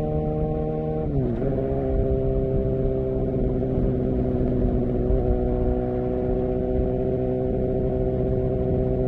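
Suzuki GSX-R750 inline-four running at a steady idle through its exhaust. The revs sag about a second in, then hold even.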